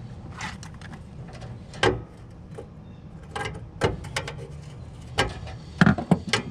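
Metal hand tools clinking and clanking as they are handled and sorted, a string of separate sharp knocks with a quick cluster of louder ones near the end, over a low steady hum.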